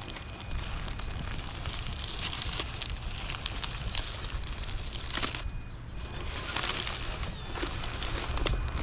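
Crackling and clicking of a small RC crawler truck's tyres working over rough, gravelly ground, with a faint electric-motor whine at times.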